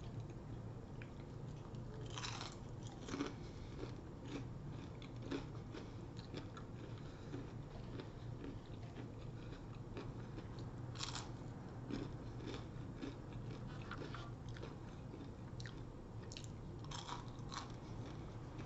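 Close-miked biting and chewing of crunchy food, with irregular sharp crunches between quieter chewing.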